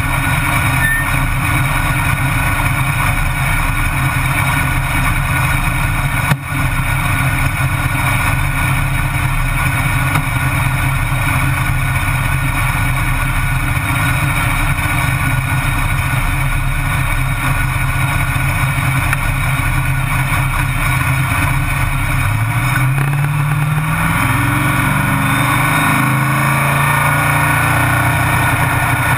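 Drag-race car's engine idling loudly, heard from inside the cockpit while the car sits on the line before its run. A little past twenty seconds in, the revs climb and then hold at a higher, steadier speed.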